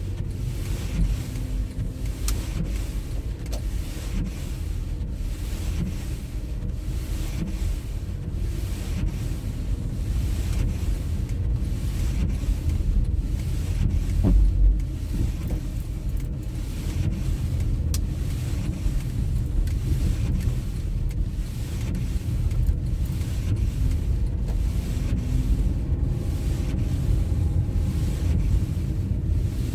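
Car driving, with a steady low rumble of road and engine noise; a brief louder low bump about fourteen seconds in.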